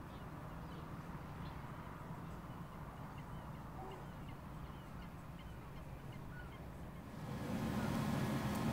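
Faint bird calls, a scatter of short chirps, over a steady outdoor background hum; about seven seconds in a louder, even rush of noise comes up.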